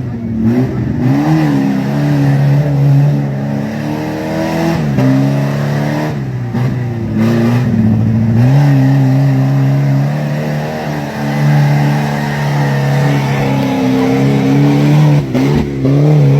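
A motor vehicle's engine running under load. Its pitch holds steady for stretches, then dips and climbs back up several times.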